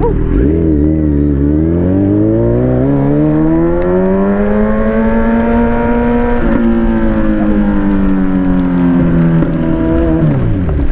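Kawasaki Z900's inline-four engine on the move: the revs climb for about six seconds, drop suddenly at an upshift, then fall away slowly and dip sharply near the end, over steady wind noise.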